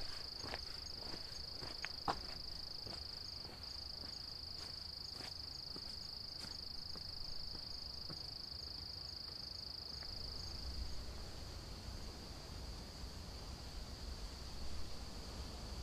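Insects trilling: one continuous high-pitched tone held without a break, louder for the first ten seconds or so and then fainter. A few light clicks in the first seven seconds.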